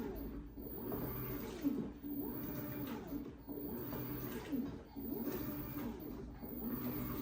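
LG WT16WV6 16 kg washing machine agitating a load of towels, its motor whine rising and falling as the drum swings back and forth, about every second and a half, over a low hum.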